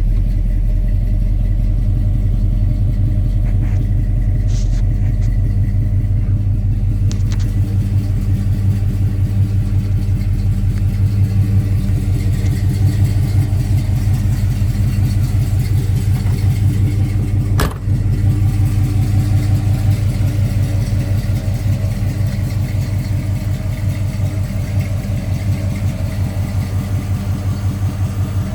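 1984 Chevrolet C10 pickup's engine running steadily with a low, even pulse. There is a brief click about two-thirds of the way through.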